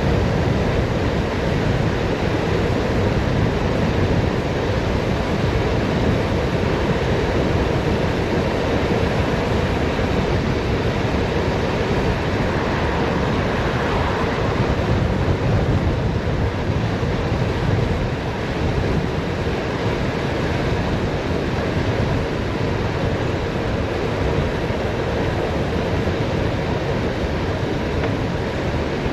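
Steady rushing wind noise on the microphone of a bicycle descending a mountain road at speed.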